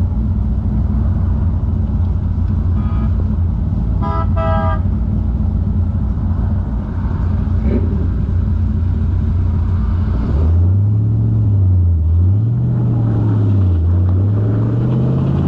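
A hot rod roadster's engine idles with a loud, low exhaust rumble. A car horn toots briefly, a faint short beep just before three seconds in and a longer toot about four seconds in. From about ten seconds in the engine is blipped up and down, then revs rising as the car accelerates away.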